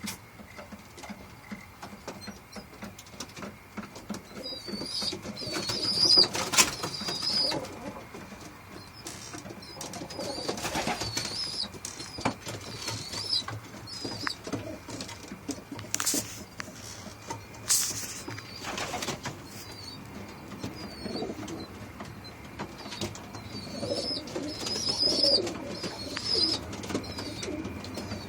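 Racing pigeons cooing in their loft, in repeated bouts, with higher chirping at times and a few sharp knocks.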